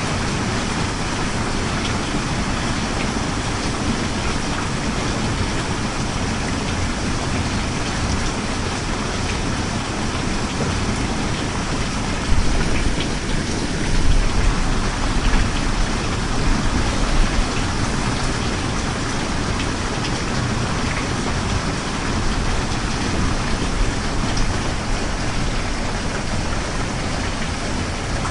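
Steady heavy rain falling, an even hiss of drops on surfaces. About twelve seconds in a low rumble swells for several seconds before fading back into the rain.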